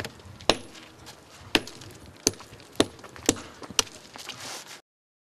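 A series of sharp knocks, one about every half second, over a steady hiss, cutting off abruptly to silence near the end.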